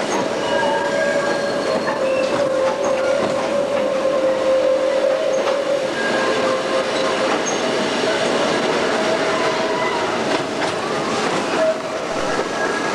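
Narrow-gauge train with an Lxd2 diesel locomotive running, heard from a carriage window. The wheels clatter over the rail joints and squeal now and then, over a steady whine.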